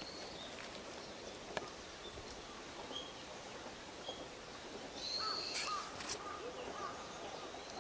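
Birds calling outdoors: scattered short, high chirps, then a quick run of short call notes about five seconds in, with a few sharp clicks.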